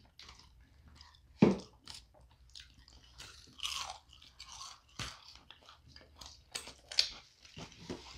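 Close-miked chewing of crunchy fried chicken nuggets, with irregular crunches and mouth clicks. The loudest crunches come about a second and a half in and again near seven seconds.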